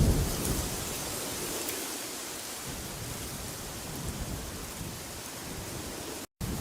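Wind blowing steadily, with a deep rumbling gust right at the start that fades within about a second. The sound cuts out completely for a split second near the end.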